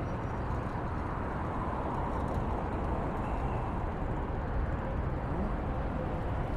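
Steady rush of wind buffeting the phone's microphone, mixed with road traffic noise.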